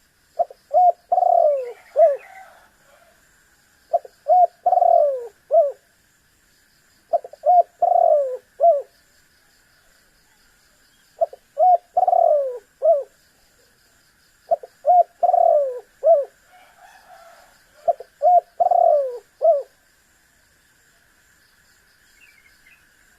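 Spotted dove (tekukur) cooing: six phrases of several low coos each, one about every three and a half seconds, stopping for the last few seconds. A faint steady high hiss runs underneath.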